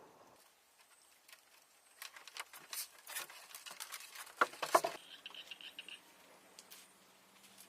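A quick run of sharp clicks and knocks between about two and five seconds in, loudest near the end of the run, followed by a faint steady hum.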